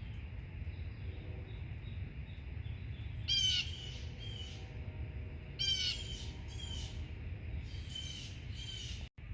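Blue jays calling from overhead: three pairs of loud, harsh calls, each pair a couple of seconds after the last, the jays scolding near the injured bird they attacked. A steady low rumble runs underneath.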